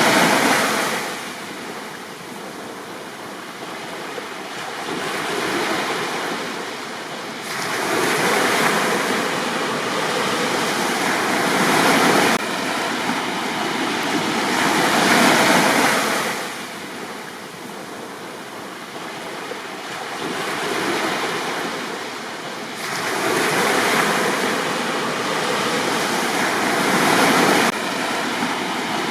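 Sea waves breaking and washing up on a beach, the surf swelling and falling back every several seconds.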